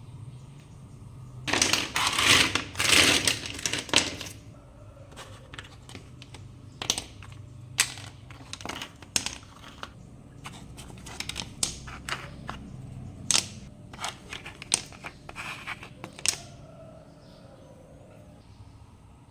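Irregular clicks and taps, like objects being handled, with a longer stretch of rustling or crinkling about one and a half to four seconds in.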